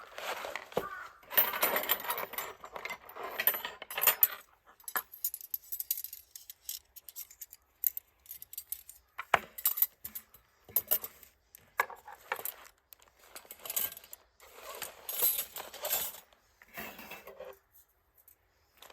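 Metal plates and parts of a BUNDOK takibi-dai Lotus+ fire pit clinking and rattling in irregular bursts as the stand is taken apart and packed away.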